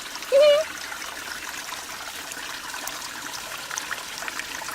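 Stream water flowing and trickling over rocks, a steady rushing noise. About half a second in, a child gives a brief high rising vocal sound.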